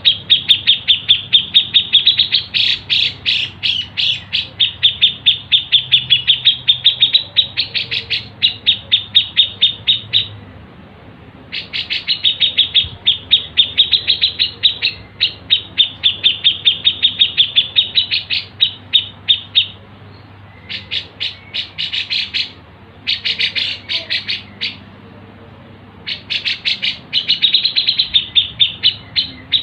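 A songbird chirping in fast, sharp runs, about eight notes a second. Long strings of several seconds alternate with short pauses, and the second half has shorter bursts.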